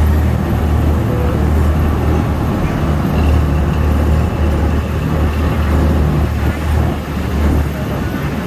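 Engine of an amphibious duck boat running steadily under way, a loud low drone that eases slightly near the end.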